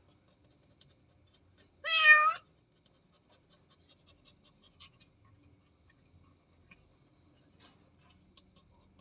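A domestic cat meows once, about two seconds in: one short call that rises slightly in pitch.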